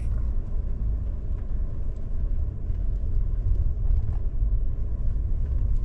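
Steady low rumble of a car driving, heard from inside the cabin with the windows closed.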